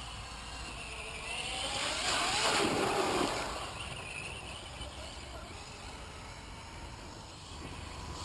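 Electric HPI Savage RC truck's motor whining, its pitch rising and falling with the throttle, with a louder rush of noise about two to three seconds in.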